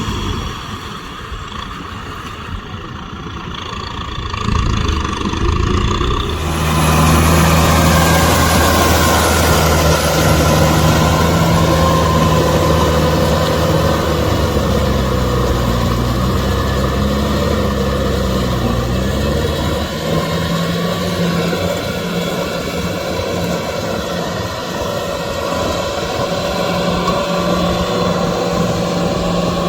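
Kubota M6040SU tractor's diesel engine running steadily. It grows louder about six seconds in.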